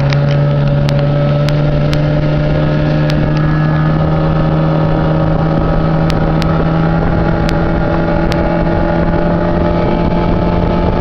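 Motorboat engine running hard with the boat under way on plane. Its steady hum creeps slightly higher in pitch, over a constant rush of noise, with a few sharp ticks.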